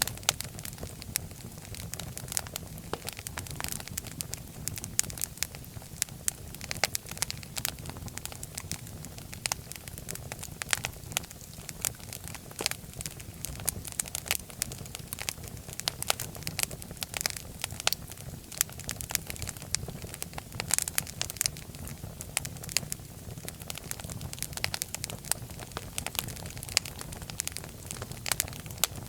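Wood fire burning in a fireplace, crackling and popping in many irregular sharp snaps over a steady low rumble of the flames.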